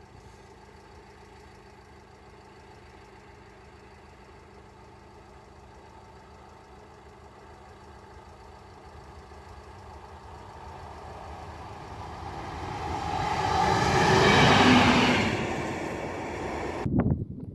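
A train approaching and passing: a steady rumble grows louder, peaks about fourteen to fifteen seconds in, then fades, and the sound cuts off abruptly near the end.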